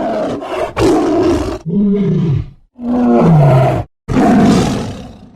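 Loud animal calls, one after another, each cut off abruptly, two of them with a clear falling pitch.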